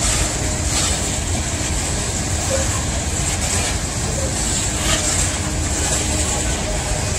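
Freight train of open-top hopper cars rolling past, a steady noise of steel wheels running on rail with a few faint clicks.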